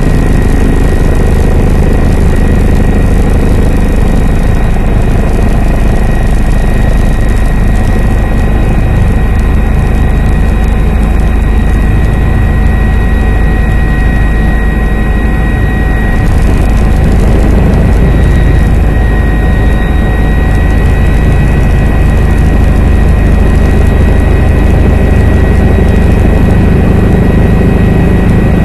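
Helicopter turbine engine and rotor running loudly and steadily, a deep rumble with a steady high-pitched whine over it.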